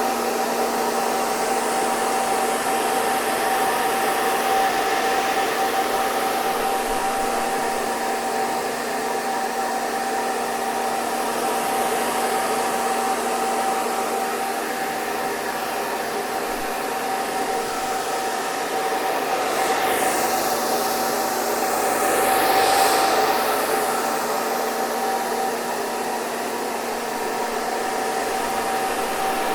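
Hair dryer running steadily: an even rush of air with a constant motor whine. Around twenty seconds in, the sound swells and brightens for a couple of seconds, then settles back.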